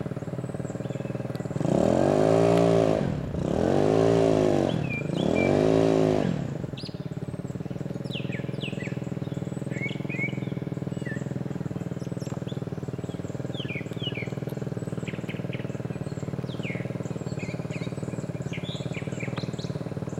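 Amtrak GE P40 diesel locomotives running with a steady drone. The horn sounds three times about two to seven seconds in, each blast bending up and then down in pitch. Birds chirp over the drone afterwards.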